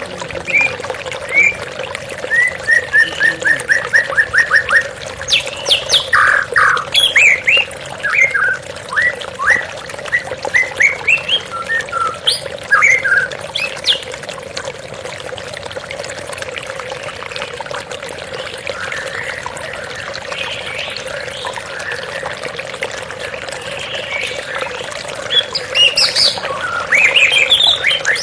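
White-rumped shama singing in bursts of rapid whistled and chirped notes, including a quick run of repeated notes, over a steady sound of flowing water. The song stops for about ten seconds past the middle and starts again near the end, while the water runs on.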